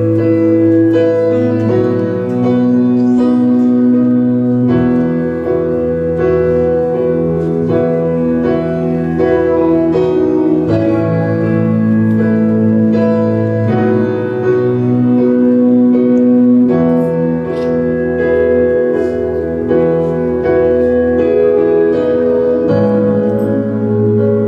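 Slow instrumental keyboard music: held chords that change every two to three seconds.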